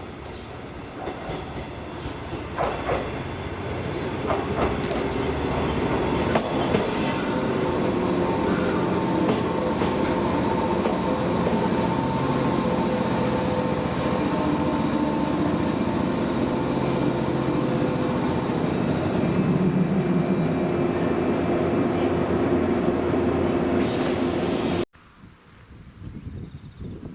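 Old JNR-type electric train, a 115 series, running on the Echigo Line. The noise builds over the first few seconds and then stays loud and steady, with sustained whining tones over the rail noise. It cuts off suddenly near the end.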